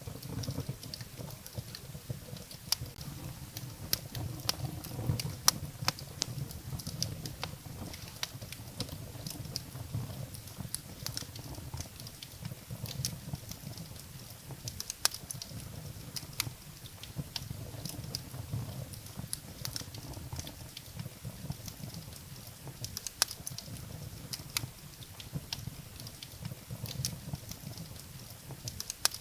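Firewood burning in a fireplace: irregular sharp crackles and pops over a steady low rumble.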